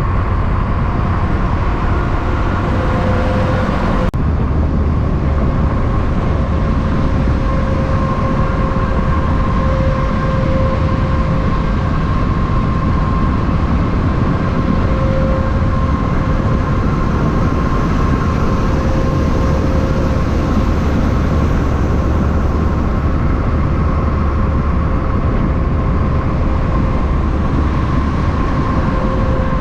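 Steady vehicle noise: a low rumble with a constant hum, holding the same level throughout, with an abrupt change about four seconds in.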